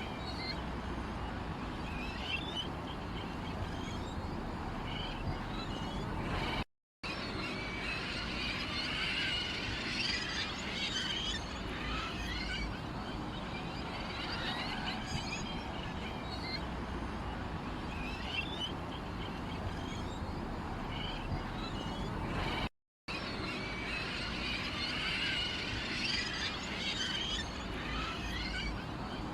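Small birds chirping and twittering over a steady background hiss, cut twice by a brief dropout to silence.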